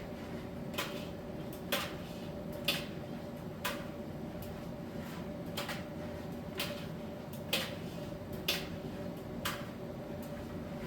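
Miele T1 heat-pump tumble dryer running: a steady hum with a held tone, and a light knock about once a second as the load drops and tumbles in the turning drum.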